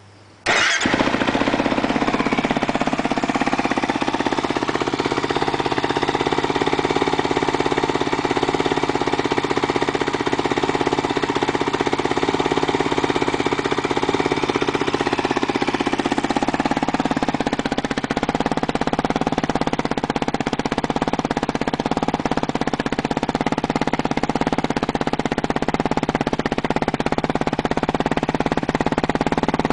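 Kawasaki KFX450R quad's single-cylinder four-stroke engine through a ProCircuit T4 aftermarket exhaust, starting about half a second in and then idling steadily. Part of its sound drops slightly in pitch about halfway through.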